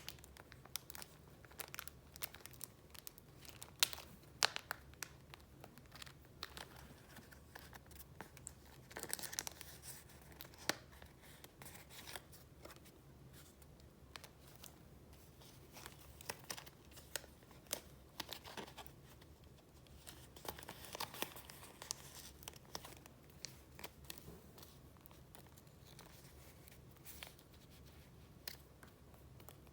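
Paper being handled and leafed through, rustling and crinkling with scattered small taps and clicks, busier around nine and twenty-one seconds in.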